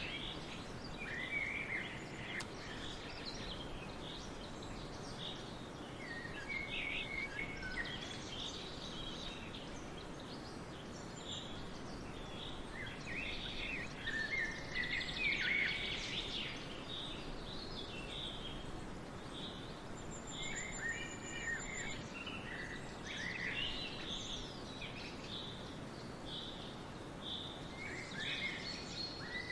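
Forest birds chirping and singing, many short calls and trills scattered over a steady background hiss, with a brief thin high note about two-thirds through.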